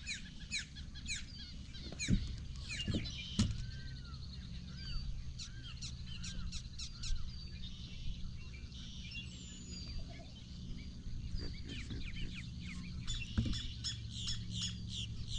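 Birds calling: rapid runs of short, repeated high chirps, about five a second, at the start and again near the end, with slower arched notes in between. A low steady hum runs underneath.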